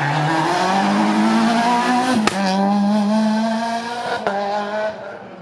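Rally car engine under hard acceleration, its note rising for about two seconds, then a sharp crack and a steadier held note that fades as the car goes away near the end.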